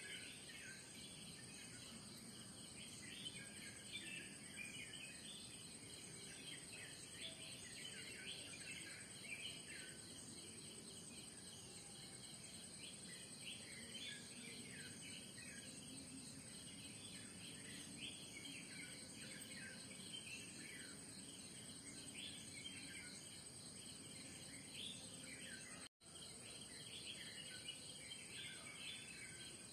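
Many birds chirping in quick short calls over a steady, high-pitched insect drone of crickets or cicadas. The sound cuts out for an instant near the end.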